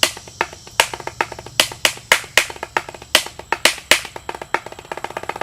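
Drumsticks playing a rudiment-style pattern on a custom snare drum practice pad: loud accented strokes with quieter strokes between them, each with a short, slightly pitched ring.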